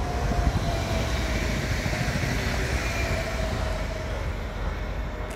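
Stadler FLIRT electric multiple unit passing at speed: a steady rush of wheels on the rails with a faint whine that drops slightly in pitch as it goes by.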